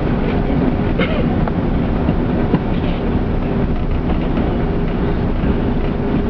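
Steady rumble inside the cabin of an Airbus A380 rolling on the ground after landing, engine and wheel noise together, with a few light clicks and rattles over it.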